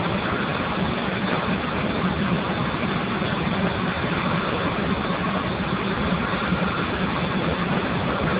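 Steam boiler running with a steady rushing noise over a constant low hum.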